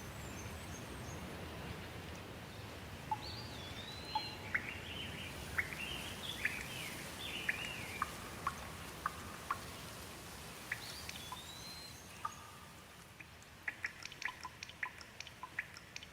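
Steady light rain with birds chirping and whistling over it. Near the end the rain thins and a quick run of water drips takes over.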